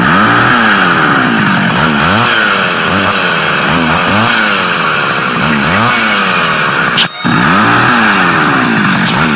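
An engine revving again and again, its pitch climbing and falling about once a second, with a brief cut-out about seven seconds in.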